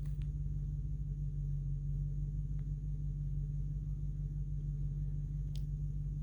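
Truck engine idling steadily with an even, deep hum, and a few faint clicks.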